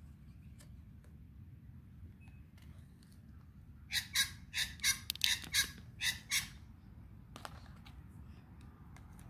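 A bird squawks in a quick run of about ten loud, harsh calls over two and a half seconds, starting about four seconds in, over a low steady background hum.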